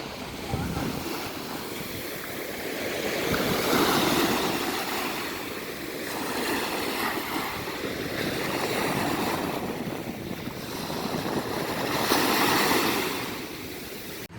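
Ocean waves breaking and washing up on a sandy beach, the rush of surf rising and falling every few seconds.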